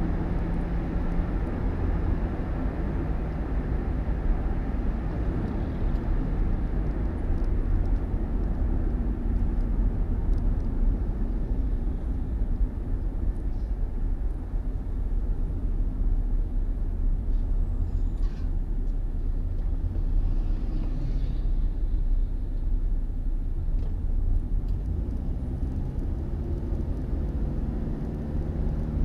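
A motor vehicle running: a steady low rumble of engine and road noise, with an engine hum that fades soon after the start and returns near the end.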